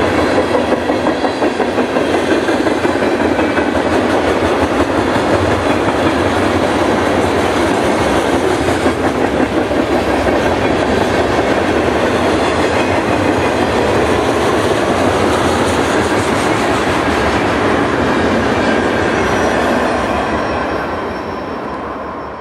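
Freight cars of a CSX mixed freight train (tank cars, covered hoppers, boxcars) rolling past, a steady rumble and clatter of steel wheels on the rails. The sound fades out near the end.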